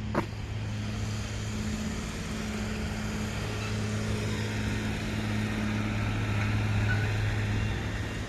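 A motor vehicle's engine runs with a steady low hum, while road noise builds a few seconds in and eases near the end. A single sharp click sounds right at the start.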